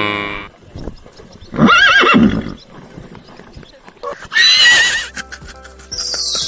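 Horse neighing: a loud, wavering whinny about one and a half seconds in, then a second, shorter high wavering call around four and a half seconds in. The end of a cow's moo fades out at the start, and music comes in near the end.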